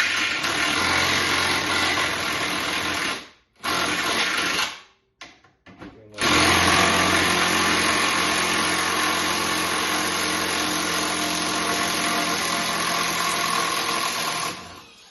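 Milwaukee M12 FUEL cordless power tool running under load driving screws: a run of about three seconds, a stop, a short burst and two quick blips, then a long steady run of about eight seconds that stops just before the end.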